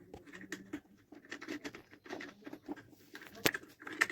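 Plastic table-fan parts being handled and fitted together by hand: a run of small irregular clicks, taps and scrapes, with one sharper click about three and a half seconds in.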